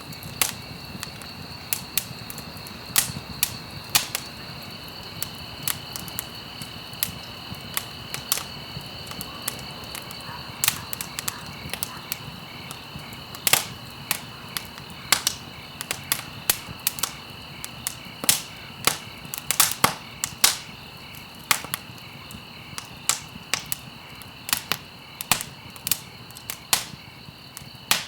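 Campfire crackling and popping: irregular sharp snaps, a few a second, over a soft hiss, with a steady high-pitched tone underneath.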